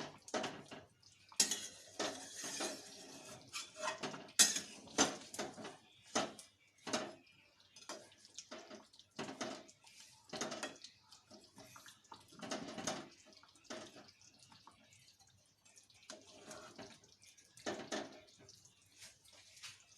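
Metal utensils clinking and scraping against a cooking pot in irregular knocks, as a finished chicken curry is stirred and handled.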